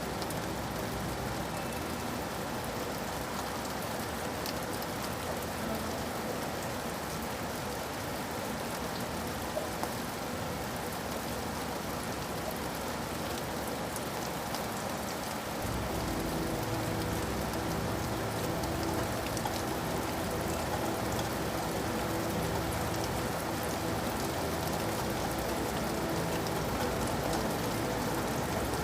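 Steady rain falling on a surface, with fine drop ticks through a continuous hiss. About halfway through, a deeper low rumble joins and the whole gets slightly louder.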